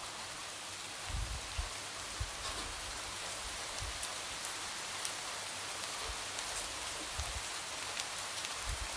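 Light rain falling steadily, with scattered drops tapping against a window.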